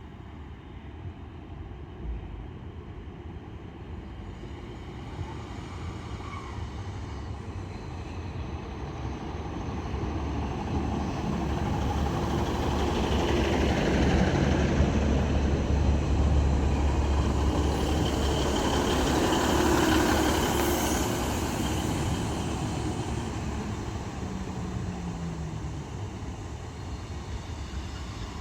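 Northern Class 150 Sprinter diesel multiple unit pulling into the platform. Its engines and wheels grow steadily louder, are loudest in the middle as it runs alongside, then fade as it slows to a stop, with a falling whine near the end.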